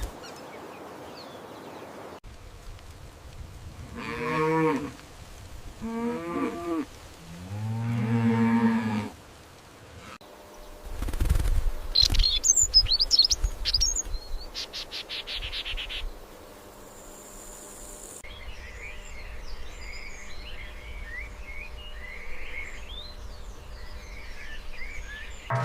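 Cows mooing three times, each call about a second long, followed by birds chirping.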